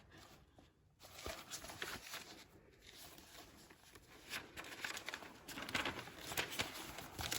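Quiet room tone with faint scattered clicks and light rustling, the clicks growing more frequent toward the end.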